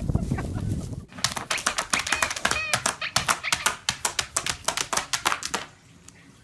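A fast run of light taps or clicks, several a second, lasting about four and a half seconds, with a faint squeak among them.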